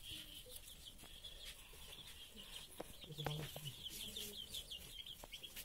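Faint, rapid chirping of birds throughout, with a brief low sound a little past three seconds in and a few soft clicks.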